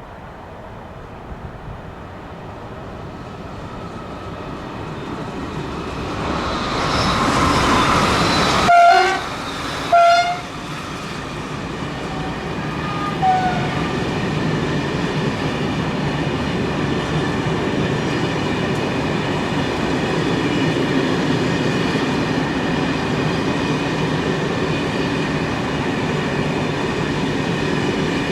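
A train approaches and passes close by. Its horn gives two short blasts, then a fainter toot a few seconds later. After that comes a long, steady rumble and clatter of wagons running past.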